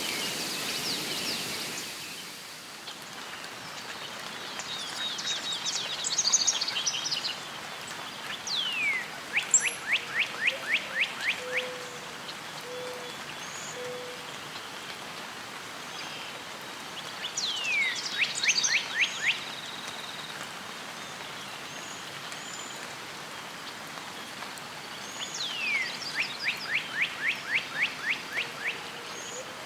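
A songbird singing the same phrase three times: a quick downward sweep followed by a fast trill of about eight notes. A steady rain-like hiss of nature ambience runs underneath, heavier for the first two seconds.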